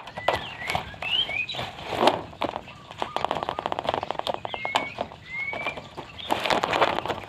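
White-rumped shama singing a varied phrase: short rising whistles, a fast rattle of clicks in the middle, and harsh scratchy notes about two seconds in and again near the end.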